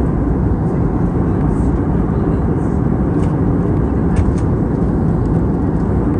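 Steady cabin noise inside an Airbus A320neo in flight: an even rush of engine and airflow noise, heaviest in the low end, with a few faint ticks.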